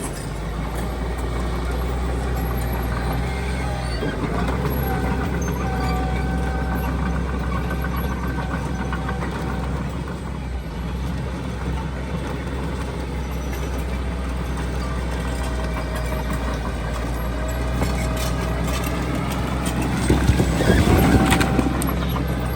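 Heavy diesel earthmoving machinery running steadily, with a faint whine above the engine. About twenty seconds in there is a louder rush of noise.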